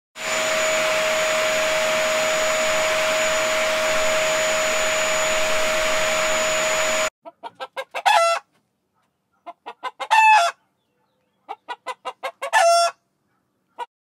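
A steady motor hum with a constant high whine runs for about seven seconds and cuts off suddenly. Then a rooster crows three times, each crow led by a few short notes.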